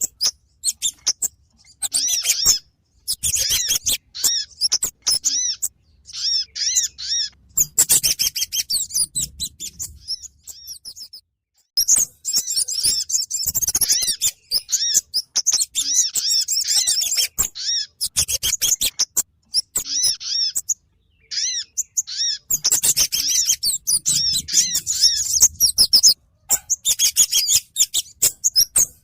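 Bird lure recording of kemade and sogon birds: bursts of rapid, high-pitched chirps and twittering notes, separated by short silent gaps.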